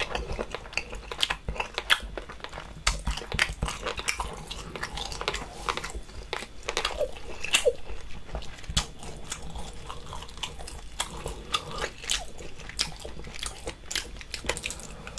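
Close-miked chewing of spicy boiled seafood: a steady, uneven run of wet mouth clicks and smacks.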